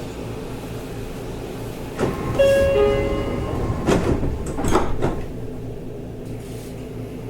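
Sliding doors of a Seibu 30000 series train closing at a station. A brief pitched tone sounds about two and a half seconds in, then the doors shut with two knocks about a second apart, over the steady hum of the standing train.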